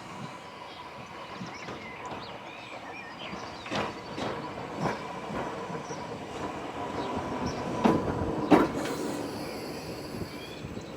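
An Island Line Class 484 electric train running through the station, its wheels knocking sharply over rail joints several times, the loudest about eight seconds in, with a high steady whine near the end.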